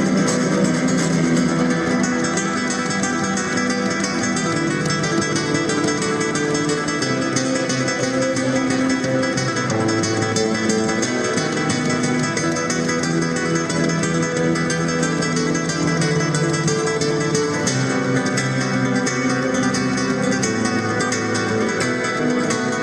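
Solo acoustic guitar playing fast, flamenco-style fingerstyle music with rapid plucked notes and strums.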